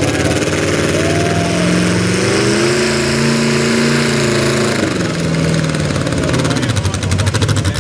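Two-wheel-drive super stock pulling truck's engine running hard, its pitch climbing for a couple of seconds, then dropping away about five seconds in and settling into a choppy, pulsing lope near the end.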